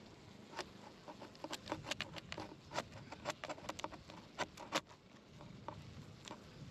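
A run of irregular sharp clicks and taps, a dozen or more over about four seconds, dying away near the end.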